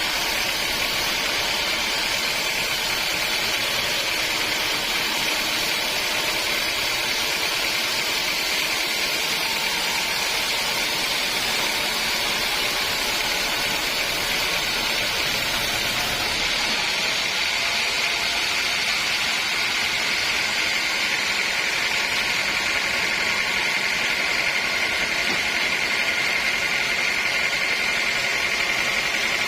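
Sawmill saw running steadily with a high whine. A little past halfway the low rumble falls away and the whine holds on a steadier pitch.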